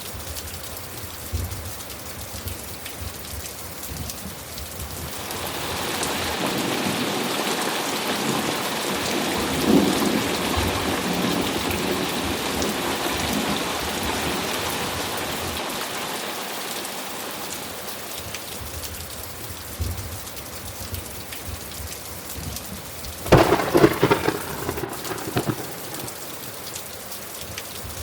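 Steady rain with a thunderstorm: a long rolling rumble of thunder swells about five seconds in, peaks, and fades away over the next dozen seconds, then a sharper, louder crackling thunderclap comes near the end.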